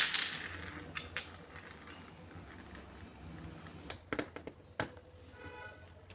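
Scattered clicks and knocks of hard objects being handled, opening with a loud knock. A short squeak or scrape comes near the end.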